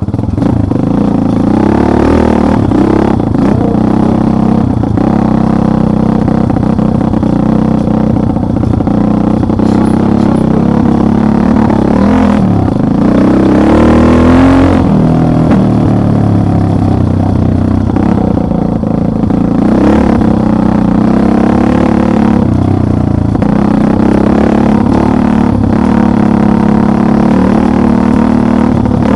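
Motorcycle engine running under way, its revs rising and falling as it is ridden, with a rev climb and drop about halfway through.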